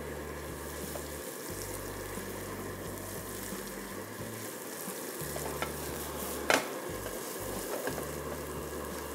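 Freshly added chopped onions and golden-fried garlic sizzling in oil in a stainless steel pan, stirred with a wooden spatula. The spatula knocks against the pan once, sharply, about six and a half seconds in.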